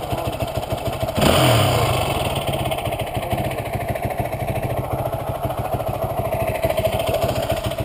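Dirt bike engine idling close by, briefly revved about a second in before settling back to idle.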